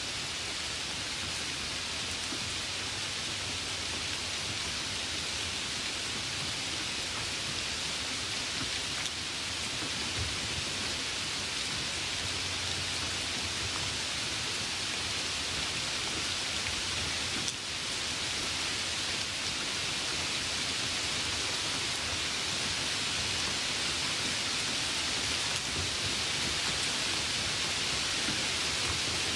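Steady, even hiss with no speech or clear events, rising slightly in level toward the end.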